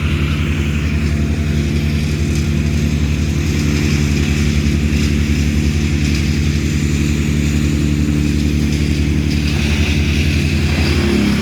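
A large engine running steadily at a constant speed, its pitch shifting just before the end.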